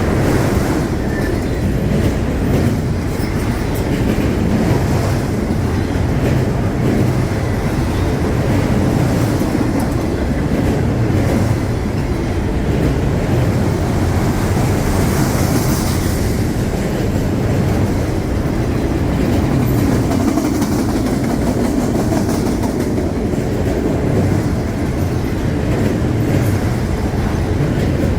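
CSX freight train rolling past, a steady rumble of cars with wheels clacking over the rail joints.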